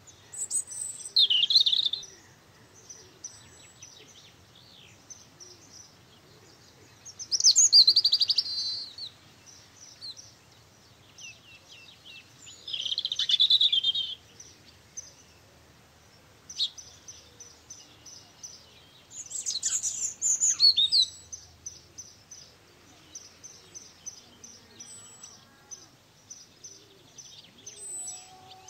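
Birds chirping: four loud bursts of high chirping several seconds apart, with faint, rapid, high chirps in between.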